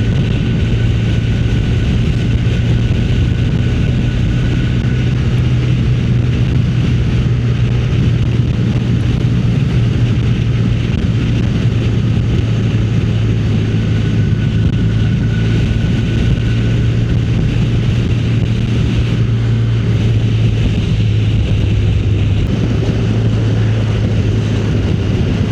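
Motorcycle engine running at a steady cruising speed, with loud wind rush over the microphone.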